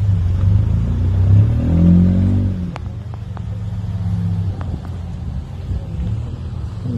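Chevrolet Caprice donk's V8 engine idling through its exhaust, with a short rev about a second and a half in that rises in pitch and then drops back to a steady idle.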